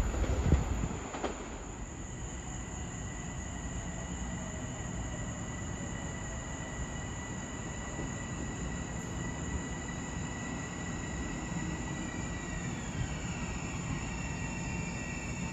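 Metro-North commuter train at the station: a steady low rumble with several steady high-pitched whines. It opens with a loud burst of noise in the first second, and near the end a whine falls in pitch.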